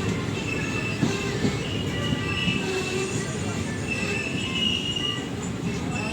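Train rolling into a station, a steady rumble with a high metallic wheel squeal that comes and goes.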